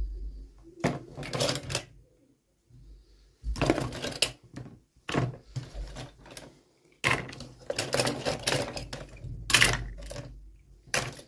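Toy packaging and small plastic toy pieces handled by hand during an unboxing: irregular bursts of crinkling and clicking, with short pauses between them.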